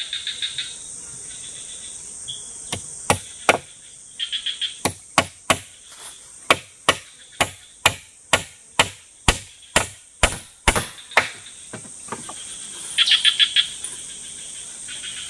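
Steady run of sharp chopping strokes, about two to three a second, from a blade striking down onto wood, stopping after about eight seconds. Forest insects trill in short bursts near the start and again near the end over a constant high insect hum.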